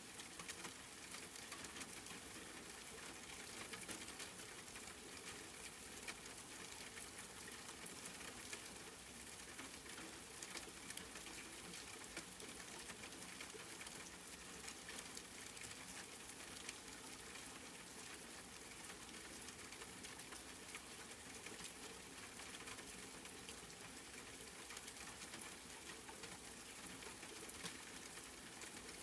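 Wood fire crackling in a fireplace: a steady hiss with frequent small pops and snaps scattered throughout.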